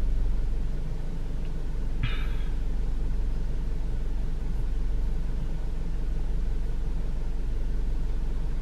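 Steady low rumble of a car with its engine running, heard from inside the cabin, with a brief faint higher sound about two seconds in.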